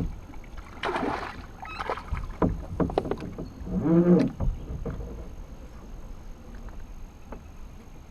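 Water splashing and hard knocks against a kayak as a hooked bass is brought in, with a short low groaning sound about four seconds in, the loudest moment.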